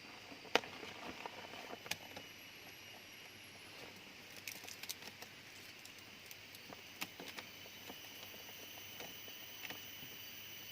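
Scattered light clicks and taps, irregular and a second or so apart, over a faint steady high-pitched hum and hiss.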